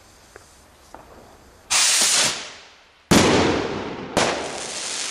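Homemade black powder rocket launching with a loud rushing hiss that fades as it climbs. Then come two sharp bangs about a second apart, the titanium-spiked flash powder salutes, each followed by a long trailing hiss.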